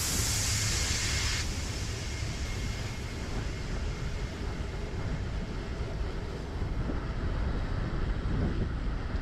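Steady low vehicle rumble with a hiss over it that drops away about a second and a half in.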